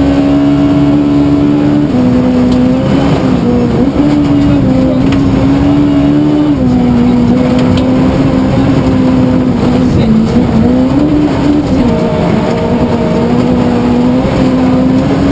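Suzuki Swift S1400 rally car's engine running hard and loud on a stage, its note holding steady for a few seconds at a time and stepping down in pitch several times, over constant road and tyre noise.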